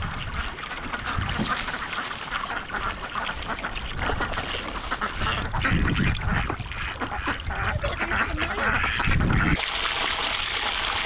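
A flock of domestic ducks quacking in a busy, overlapping chorus. About nine and a half seconds in, a steady hiss comes in.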